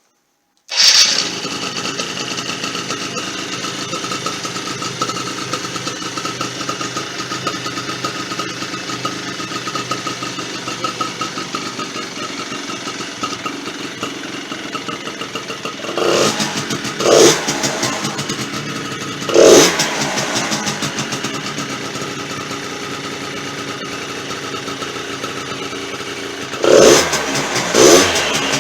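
Small 50 cc ATV engine, left unused for years and being restored, starting up about a second in and then idling steadily. It is blipped briefly five times in the second half, in two pairs and one single rev.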